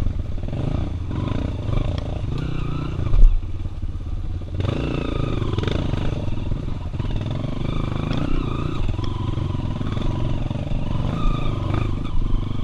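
Single-cylinder four-stroke trail motorcycle engines running under throttle, the pitch shifting as they rev. A single loud thump comes a little over three seconds in.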